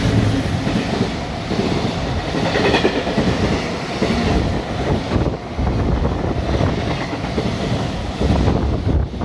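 Freight train hauled by a JR Freight EF210 electric locomotive passing through a station at speed: a loud, steady rumble of the wagons with wheels clattering over the rail joints.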